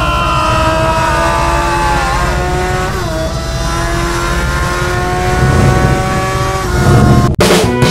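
Car engine sound effect laid over the footage, its pitch sliding slowly down with two brief dips. A sudden sharp break comes near the end.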